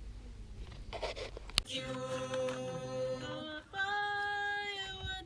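A low rumble, then a sharp click about one and a half seconds in, after which a group of voices sings unaccompanied in slow, long-held notes: the opening of a farewell song.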